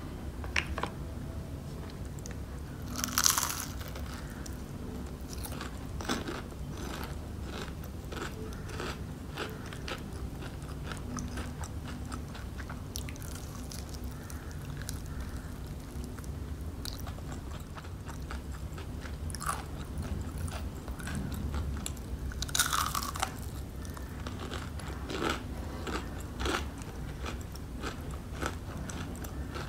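Close-miked eating of crispy fried chicken: loud crunching bites into the fried coating about three seconds in and again about two-thirds through, with steady crackly chewing between.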